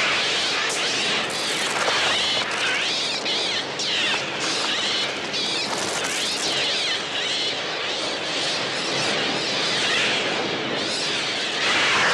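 A dense flock of birds shrieking and cawing, many overlapping calls.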